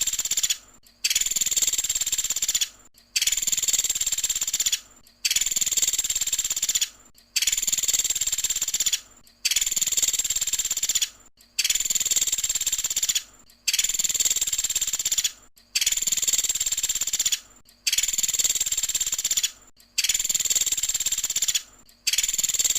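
Small woodpecker (Indonesian 'pelatuk sampit') giving a rapid, high-pitched trilling call, repeated in even bursts about every two seconds, each under two seconds long.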